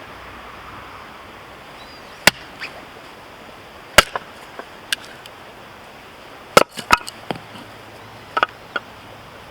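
Husqvarna hatchet chopping firewood: a series of sharp, separate chops, about five hard blows with smaller knocks between them. The loudest blow comes about four seconds in.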